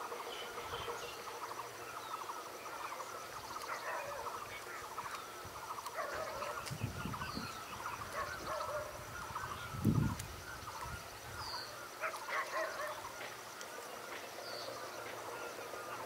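Birds calling, a steady chatter of quick repeated notes with scattered higher chirps, and a few low thuds about seven and ten seconds in.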